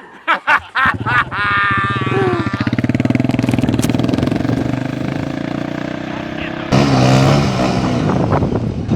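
Motorcycle engine running steadily, cutting suddenly to a louder engine sound about seven seconds in, with a few short voice sounds near the start.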